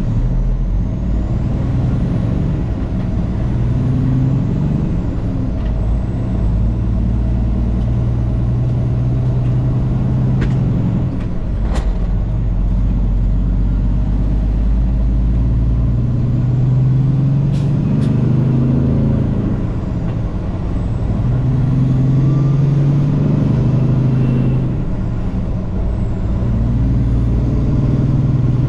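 Semi-truck's diesel engine heard from inside the cab while driving, its pitch rising and falling several times as it pulls and eases off. A few short sharp clicks come midway.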